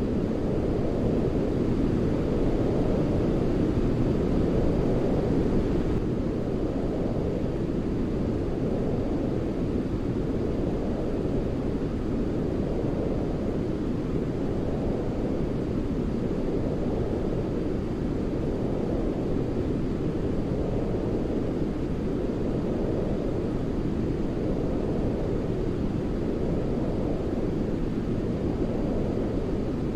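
Continuous deep white noise for baby sleep, most of it low and rumbling like brown noise, with gentle swells every two to three seconds.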